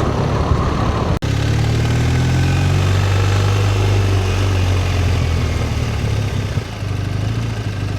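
Motorcycle engine running steadily at low revs while the bike is ridden, its pitch shifting slightly. A brief gap in the sound about a second in.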